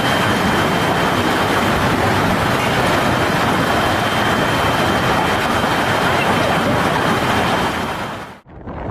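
Dense, steady roar of a severe storm, heavy precipitation and wind, which cuts off abruptly near the end.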